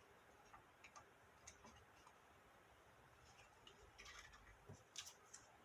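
Near silence, with a few faint clicks and light rustles of cardstock being handled.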